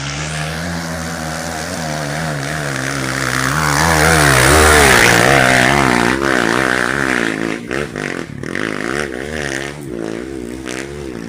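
Motocross dirt bike engine running, growing louder to a peak about five seconds in, then its revs rising and falling repeatedly as it rides.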